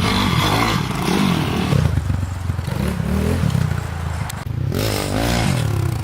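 Pit bike engines running and revving, the pitch rising and falling several times, with one clear rev up and back down about five seconds in.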